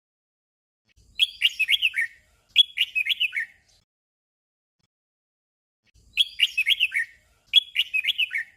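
Red-whiskered bulbul singing a short warbled phrase twice in quick succession, then the same pair again after a pause of a couple of seconds: four bright, quick phrases of rising and falling notes in two doubled pairs.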